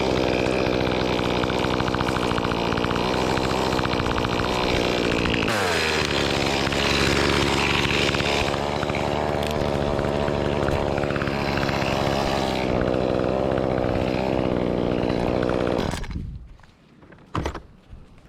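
Echo CS-2511T top-handle chainsaw, a small two-stroke, running at full throttle in a cut. Its revs drop sharply about five seconds in and it runs on at the lower pitch. The engine stops about two seconds before the end, leaving a couple of faint knocks.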